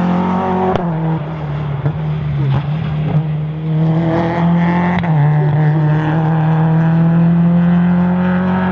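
Rally car engine at full throttle, its pitch climbing as it pulls through the gears. There is a sharp crack and a drop in pitch at each of two gear changes, about a second in and about halfway through.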